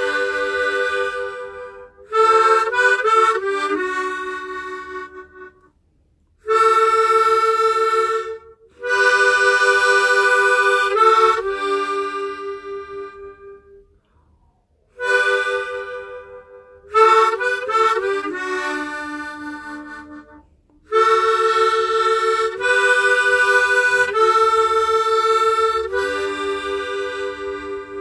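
Hohner Echo Harp tremolo harmonica played solo: a slow melody of held notes and chords, its volume wavering, in phrases that fade out into short pauses.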